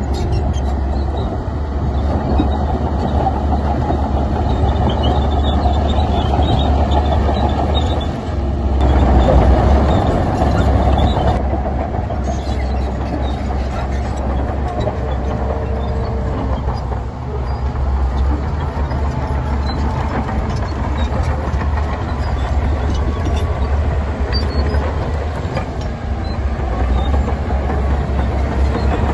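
Heavy earthmoving machinery running: a steady low diesel rumble that swells for a couple of seconds about a third of the way in.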